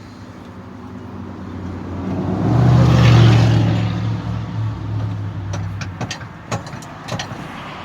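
A car engine drives by, growing louder to a peak about three seconds in and then fading away. Several sharp clicks or taps follow near the end.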